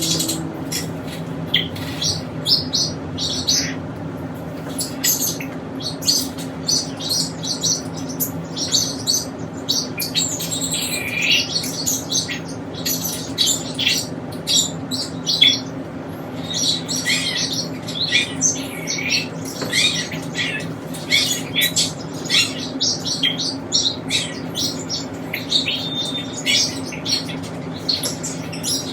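Small pet parrots chirping and chattering with many quick, high chirps and occasional squawks, over a steady low hum.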